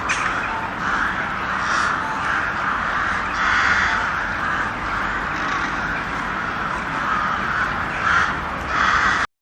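A flock of birds calling over one another in a dense, continuous chorus, with louder swells of calls now and then.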